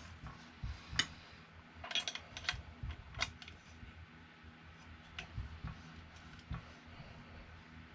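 Scattered light clicks and taps from a Creality Ender 3 Pro's rubber-wheeled carriage being rocked and pushed by hand on its metal rail, a check for rocking and smooth travel with the belt off. The clicks come thickest in the first three and a half seconds, then thin out.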